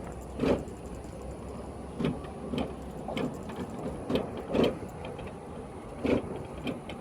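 Irregular dull thumps and knocks, roughly one every second, over a steady background hiss.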